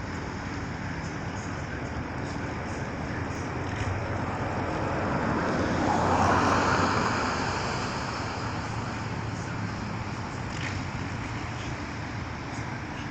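Steady outdoor traffic noise, with one vehicle passing that grows louder to a peak about six seconds in and then fades.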